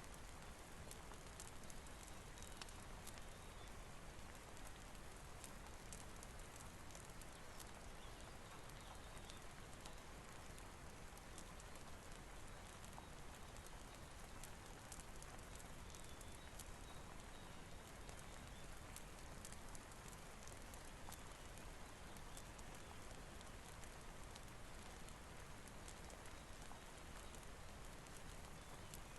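Faint, steady hiss of rain with many small, scattered crackles and ticks from a wood fire burning in a fireplace.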